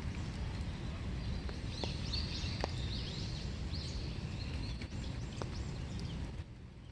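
Steady winter rain, with single drops tapping sharply now and then. A bird chirps a quick run of short calls from about two seconds in until about halfway through.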